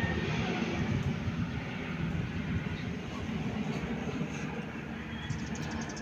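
Bombardier Dash 8 Q400's twin turboprop engines at takeoff power: a steady, noisy rumble that slowly fades as the airliner moves away.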